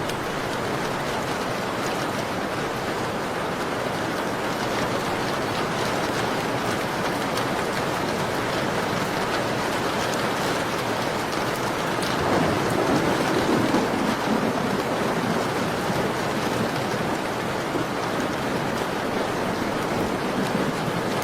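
Steady rain falling and pattering against a window glass, an even, dense hiss, swelling briefly about twelve seconds in.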